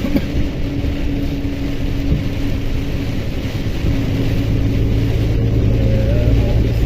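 Mercedes-Benz Axor 2644 truck's six-cylinder diesel engine droning steadily under way, heard from inside the cab. About four seconds in a deeper hum comes in and the sound grows slightly louder.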